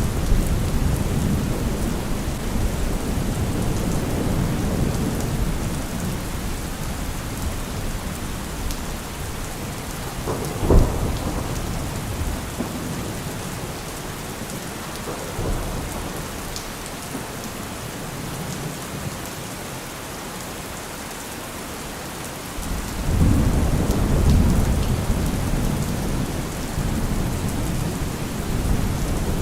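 Steady rain falling with rolling thunder. The rumble fades after the first few seconds, a single sharp thunderclap comes about ten seconds in, and the rumbling swells again near the end.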